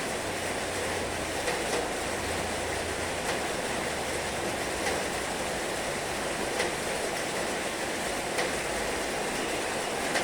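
Heavy rain falling steadily: a dense, even hiss with a few sharper ticks scattered through it, and a faint low rumble underneath for the first few seconds.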